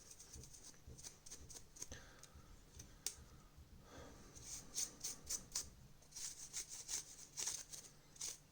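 Faint scraping and rubbing strokes with light clicks from small plastic TV-remote parts being cleaned and handled by hand, growing busier in the second half.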